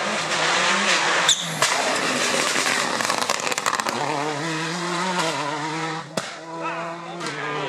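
Rally car engine at high revs as the car passes at speed on a stage, with a rapid crackle of exhaust pops about three seconds in. It then settles into a steadier, somewhat quieter engine note, with a single sharp knock near the end.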